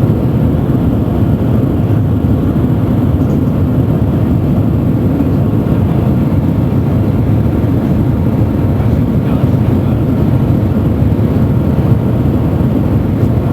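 Steady low rumble of the Shanghai maglev train heard from inside the cabin as it runs at high speed, climbing toward its top speed of about 430 km/h.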